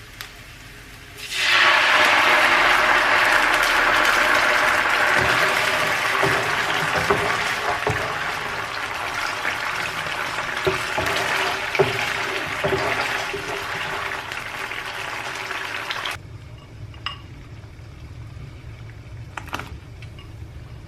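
Water running hard from a tap for about fifteen seconds, with a few knocks of things against the sink, then turned off abruptly.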